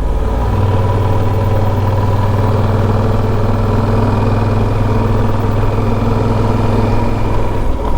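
Yamaha Super Ténéré's parallel-twin engine running at a steady, even speed while the bike is ridden.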